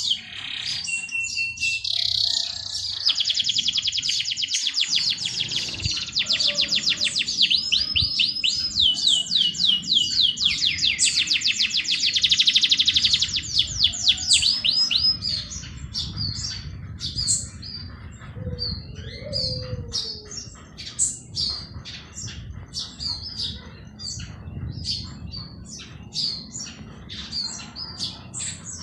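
Songbirds singing: fast, rapidly repeated high trilling notes fill the first half, then thin out to scattered short chirps. A faint low rumble runs underneath.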